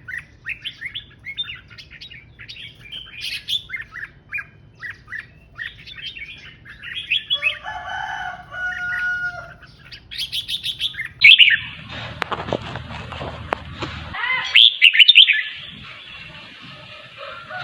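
Red-whiskered bulbul singing in quick runs of short, bright chirps. About eleven seconds in, a louder, rougher stretch of a few seconds cuts in, with loud sweeping notes over a dull rumbling noise.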